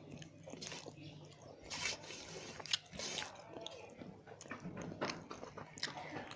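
A person chewing a mouthful of food close to the microphone, with irregular small clicks and wet mouth noises.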